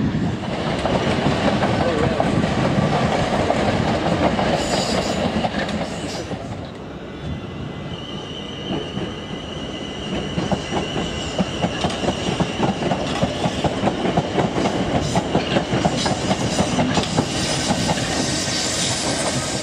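Electric multiple-unit trains running over pointwork and passing close by. A thin, high wheel squeal is held through the middle, and from about halfway the wheels clatter over rail joints and crossings in quick, regular clicks.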